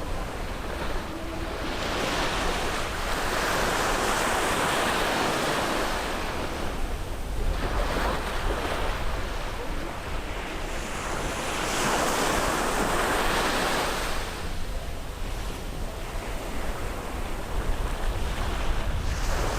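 Caribbean sea waves breaking and washing up the beach, the surf swelling and fading every few seconds. A steady low rumble of wind on the microphone runs underneath.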